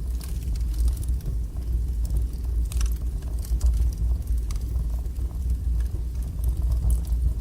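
Wood fire burning in a fireplace: a steady low roar with scattered crackles and pops, one sharper pop about three seconds in.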